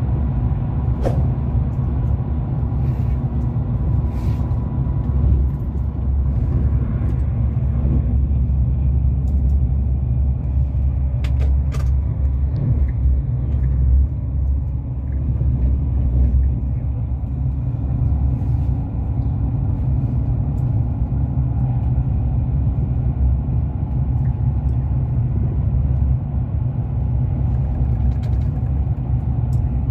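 Steady low rumble inside the passenger car of a German high-speed train running at speed, with a few faint clicks.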